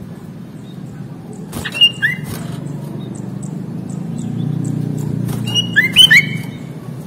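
Sooty-headed bulbul (kutilang) giving two short bursts of quick, sliding whistled call notes, about two seconds in and again near six seconds. A steady low hum runs underneath.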